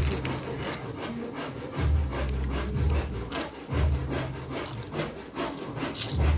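A workshop tool scraping and rubbing rhythmically, with many small clicks and a low hum that swells in surges about every two seconds.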